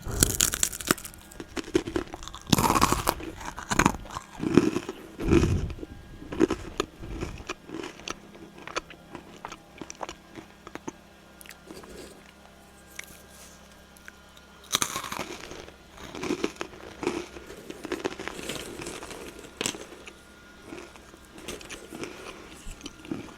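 A person biting and chewing a crunchy snack, in irregular crunches. The crunching is loud and busy over the first several seconds, sparse in the middle, and picks up again about fifteen seconds in.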